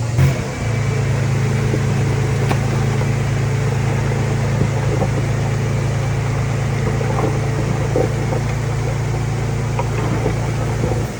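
Diesel engine of heavy earthmoving equipment running at a steady speed, with a few short knocks and clanks over it.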